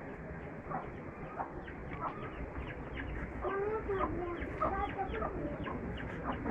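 Farmyard animals calling: short clucking calls repeat throughout, and about halfway in a louder, wavering pitched call joins them.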